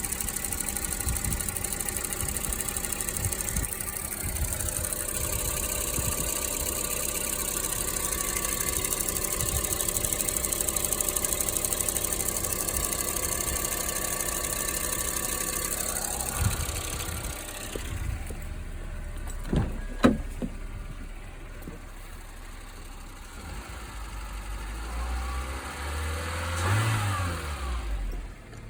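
Honda Insight engine idling from cold, running steadily. About two thirds of the way through it drops quieter, with a sharp click, and near the end a low tone briefly rises and falls.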